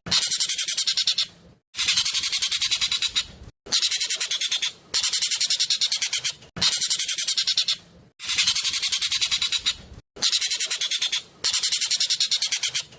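Jovin (ekek keling) bird calling loudly in repeated bursts, each about a second and a half of rapid, high notes packed tightly together, with short breaks between, about seven bursts.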